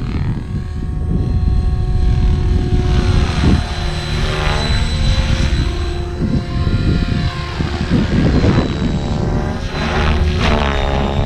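Mikado LOGO 600 radio-controlled helicopter in flight: a steady rotor chop under a high electric-motor whine. The sound swells and its tone sweeps up and down several times as the helicopter flies close past and away.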